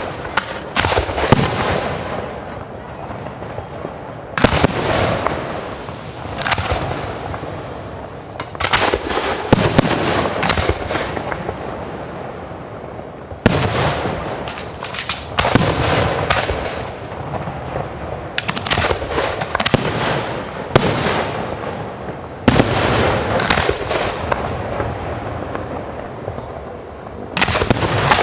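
Fireworks display: aerial shells bursting with sharp bangs every one to three seconds, some in quick clusters of several, with crackling and a steady haze of noise between the bursts.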